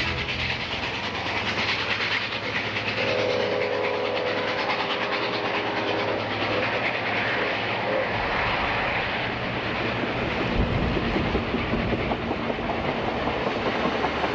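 A steam locomotive running, with a continuous rush of exhaust and wheel noise. A whistle sounds about three seconds in and holds for roughly three seconds.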